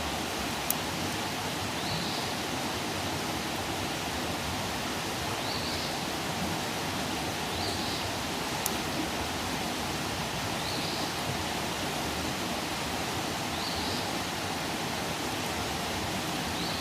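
Campfire burning with a steady hiss and rush, and two sharp pops from the burning wood, one near the start and one about halfway through. A faint short high call repeats every two to three seconds.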